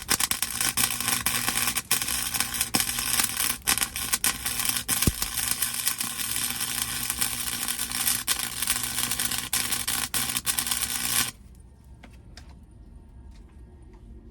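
Welding arc crackling continuously on the sheet-steel floor pan for about eleven seconds as a weld bead is run, then cutting off suddenly when the trigger is released.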